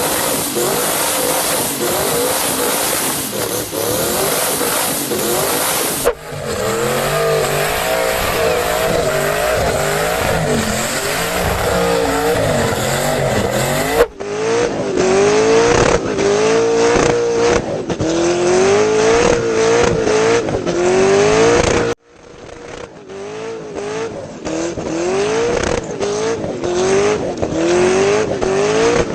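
Twin-turbo LSX V8 in a Holden Commodore revving hard, its pitch climbing and dropping in repeated sweeps, with some tyre squeal. The audio comes in several separate cuts.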